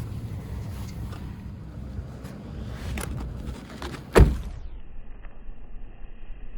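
A few light knocks, then one loud thunk about four seconds in, over a steady low rumble; right after the thunk the sound turns muffled and dull.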